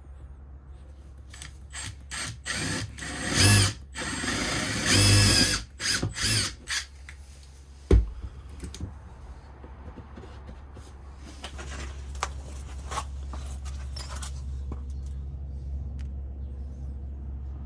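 Electric drill boring holes through the bus's body panel along a marked cut line, in several short whining runs, followed by a single sharp knock about eight seconds in and then a quieter steady tool sound.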